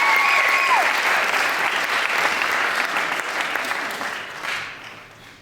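Audience applauding, with a held high cheer over it in the first second. The clapping dies away over the last second and a half.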